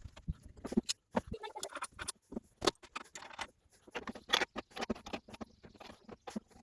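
Irregular clicks, taps and light clinks, like small metal parts and tools being handled.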